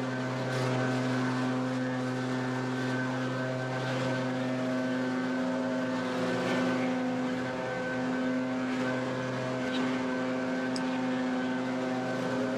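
Gas backpack leaf blower's two-stroke engine running steadily, a constant engine drone that holds one pitch throughout.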